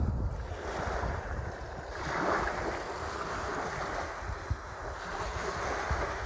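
Sea waves washing in, with one swelling wash about two seconds in, and wind buffeting the microphone with a low rumble.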